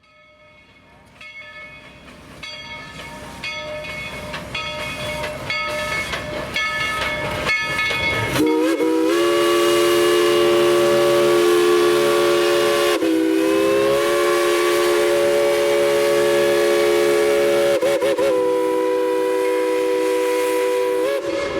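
Steam locomotive bell ringing steadily and growing louder, then the locomotive's chime whistle blowing two long blasts, each starting with a brief waver in pitch.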